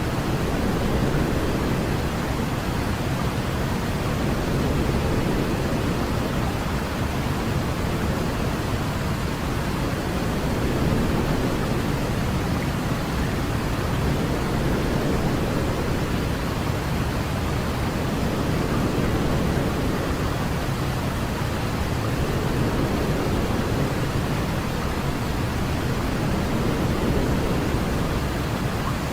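Continuous sleep noise for a baby: a steady, even hiss weighted toward the low end, like pink noise, with slow, gentle swells in loudness.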